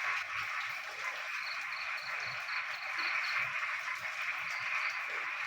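Dense chorus of frogs calling, a steady massed din, with one caller's high, rapid pulsed trill standing out for about two seconds in the middle.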